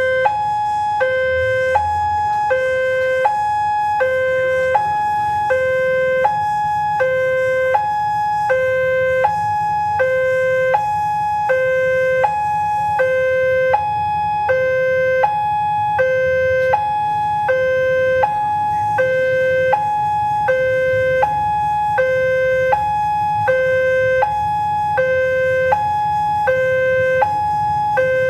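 Railway level-crossing warning alarm sounding as the barrier is in operation: an electronic two-tone alternating high then low, about one pair a second, repeating steadily. A steady low rumble runs underneath.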